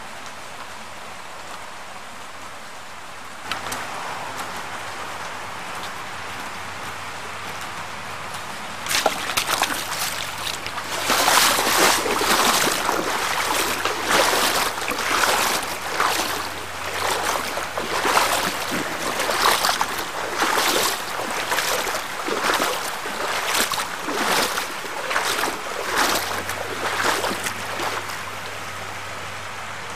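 Steady rain hiss that grows heavier about nine seconds in, coming in loud surges roughly once a second, then eases near the end.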